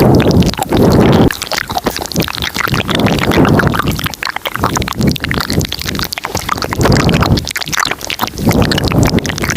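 Layered ASMR mouth sounds close to the microphone: a dense run of wet clicks and smacks, with several louder low swells.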